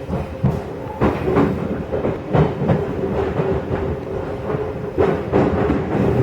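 Inside an Odakyu 3000-series commuter train car in motion: the wheels clack over rail joints, mostly in quick pairs a few seconds apart, over a steady running rumble and hum.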